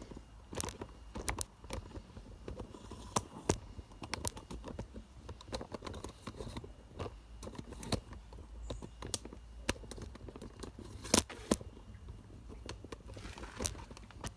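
Irregular clicks, taps and knocks of hands handling objects, with no engine running; the sharpest pair of knocks comes a little past two-thirds of the way through.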